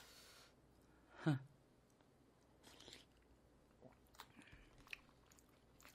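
Quiet, close mouth sounds of a person eating spicy brisket stew and rice with a spoon: soft chewing and slurping, with a short hum about a second in and a few faint clicks later on.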